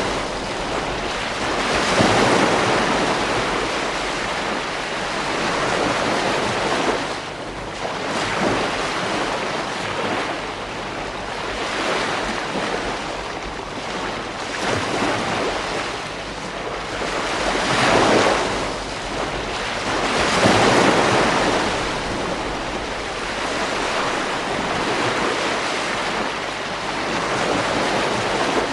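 Ocean surf breaking on a beach: a continuous wash of waves that swells and falls back every few seconds, with the strongest breakers about 2, 18 and 20 seconds in.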